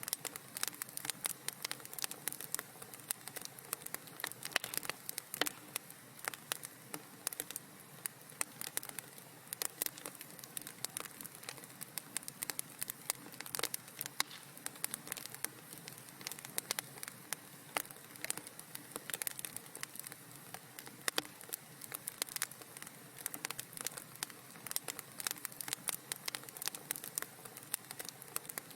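Fire crackling in a fireplace: a dense, irregular stream of small pops and snaps over a soft steady hiss.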